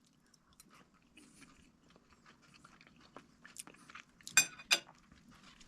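A person chewing food, with soft crunching and small scattered clicks, and two sharper clicks about four and a half seconds in.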